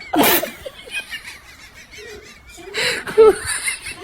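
People laughing in short bursts, with a high warbling sound between the laughs.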